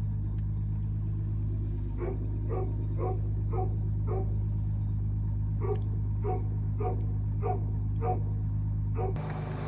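A dog yips over and over, about two yelps a second with a short pause midway, over the steady low hum of a Jeep Grand Cherokee WK's 3.0 CRD diesel idling just after a cold start in sub-zero weather. The hum changes near the end.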